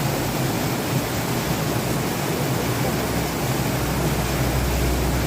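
Waterfall rushing: a steady, dense roar of falling water. A low rumble builds under it in the last second or two.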